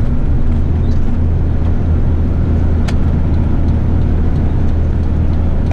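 An eight-wheeler twin-steer rubbish truck heard from inside the cab while driving: a steady low engine drone with road noise. A single sharp click comes about three seconds in.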